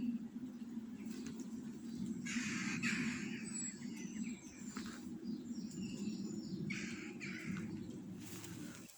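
Garden birds calling: two bouts of harsh, rasping calls, one about two seconds in and another about seven seconds in, with faint thin high chirps between them, over a steady low hum.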